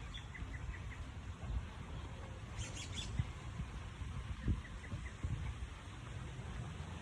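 Small birds chirping: short runs of quick high notes near the start and again about two-thirds of the way through, with a brighter burst of calls about halfway. Underneath are a steady low rumble and a few soft low thumps.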